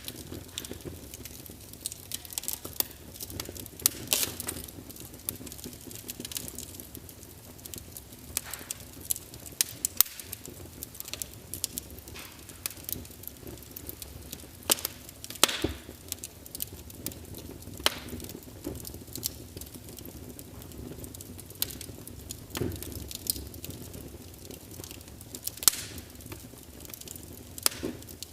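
Wood fire crackling: irregular sharp pops and snaps, a few louder ones standing out, over a low steady rumble of burning.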